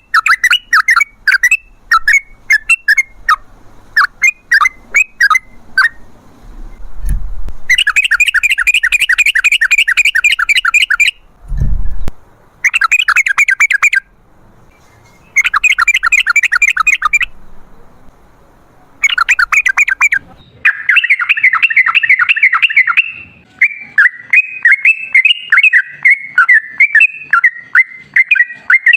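Yellow-vented bulbul (trucukan) singing: first runs of quick separate chirps, then several rapid rolling trills of one to three seconds each, then a continuous fast warbling phrase in the last third. Two dull low thumps sound about 7 and 12 seconds in.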